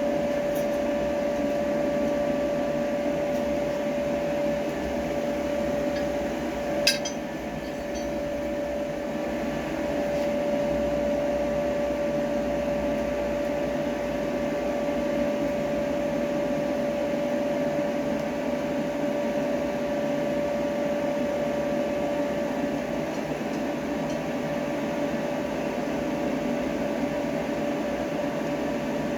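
Steady blower hum in a blacksmith's shop, one constant tone over a rushing noise, like a forge's electric air blower running. A single sharp metallic clink comes about seven seconds in.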